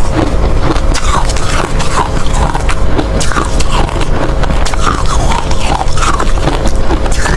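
Hard ice being bitten and chewed close to the microphone: a dense run of sharp cracks and crunches over a heavy low rumble.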